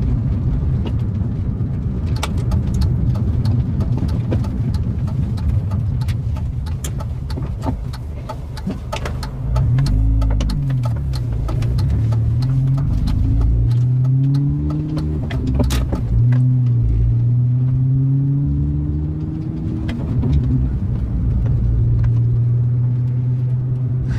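Car engine and road noise heard from inside the cabin while driving, with scattered sharp knocks and rattles in the first half. From about ten seconds in, the engine note climbs and drops several times as the car picks up speed.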